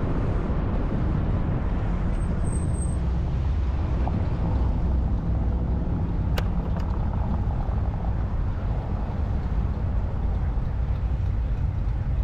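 Car engine running with a steady low rumble, and a single sharp click about six seconds in.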